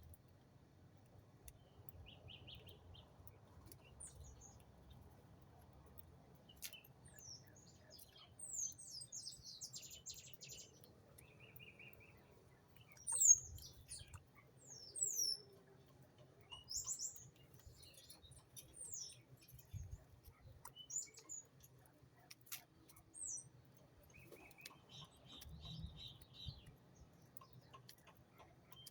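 Small birds chirping: scattered short, high chirps and quick slurred notes, with a few brief buzzy trills, the loudest call about halfway through.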